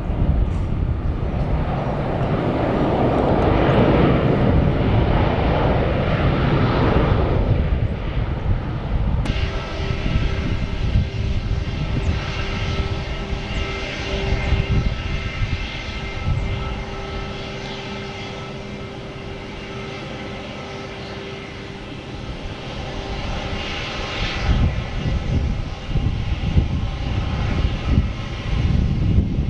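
Airbus A319's twin jet engines running: a broad rushing noise, then, after a sudden change about nine seconds in, a steady engine whine with several held tones over a low rumble.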